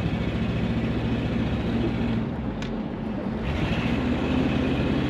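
1970 Ford Mustang's engine running under way on a test drive, with a steady low drone that eases slightly about halfway through and then builds again.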